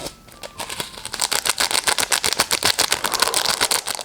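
Plastic ramen seasoning packet being handled and shaken, giving a fast run of crisp crinkling clicks that starts about a second in.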